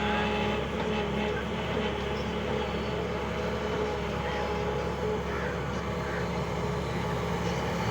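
Heavy diesel engine running steadily at an even speed, a constant hum with a low rumble beneath it.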